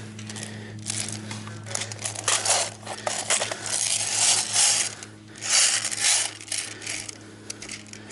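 Repeated bursts of rustling and scraping close to the microphone, each lasting up to about a second, over a steady low hum.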